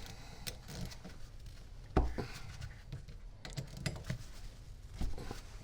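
Small metal clicks and knocks of hand tools working on a power steering pump as its back cover is being opened, with a sharp knock about two seconds in and another near the end.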